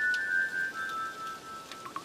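Soft, high, sustained tones of ambient music stepping down in pitch and fading out near the end, over steady rain hiss with scattered faint drips.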